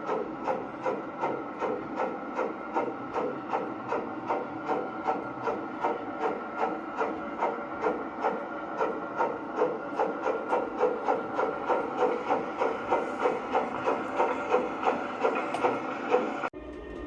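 Large-scale LGB model train running, with an even mechanical beat of about three a second that keeps a steady pace. It breaks off abruptly just before the end.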